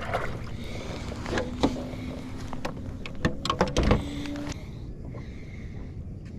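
Knocks and clatter of gear being handled in a kayak, loudest in a cluster about three to four seconds in, over a steady low hum that stops about four and a half seconds in.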